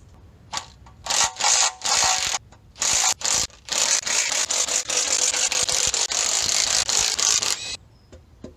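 A power tool run in several short bursts, then held for about four seconds before it cuts off suddenly.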